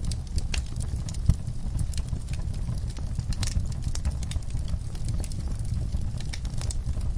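Wood fire burning in a fireplace: a steady low rumble of flames with irregular crackles and pops, one sharper pop about a second in.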